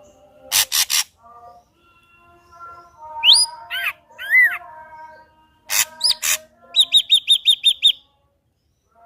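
Ashy drongo singing a varied song. It gives harsh rasping notes, a couple of rising-and-falling whistles, and then a quick run of about eight clipped notes, with a short pause near the end.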